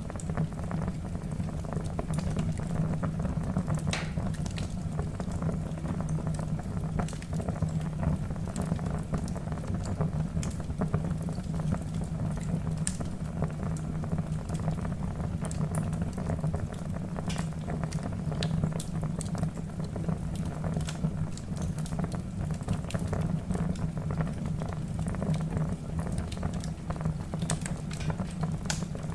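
Wood fire burning in a fireplace: a steady low rush of flames with frequent sharp crackles and pops from the logs.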